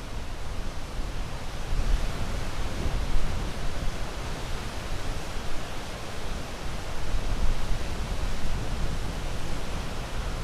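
Ocean waves breaking and washing in a steady surf, with a deep rumble and slow swells in loudness.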